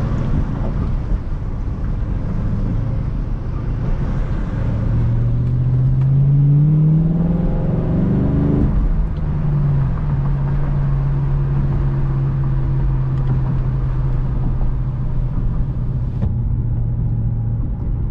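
2007 Ford Mustang GT's 4.6-litre V8 heard from inside the cabin over road rumble. It rises in pitch from about five seconds in, drops at a gear change about nine seconds in, then holds a steady drone.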